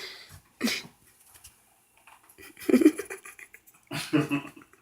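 Short bursts of soft laughter and giggling, with breaths and quiet gaps between.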